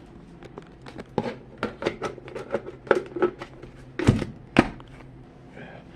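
An irregular run of small sharp clicks and knocks, then two louder thumps a half second apart about four seconds in.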